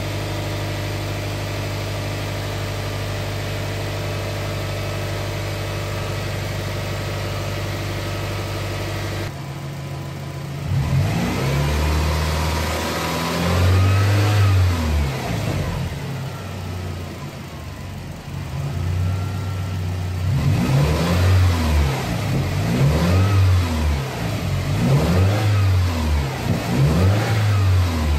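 Subaru Forester XT's turbocharged flat-four engine idling steadily, then revved in a series of throttle blips from about a third of the way in, its pitch rising and falling with each. A quicker run of blips comes near the end. This is the engine's first run after a swap to a Blouch 20G-XT turbo.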